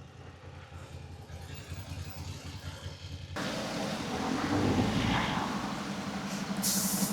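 A motorcycle engine idling low and steady. About three seconds in, the sound jumps abruptly to louder traffic noise with a vehicle engine running and a short hiss near the end.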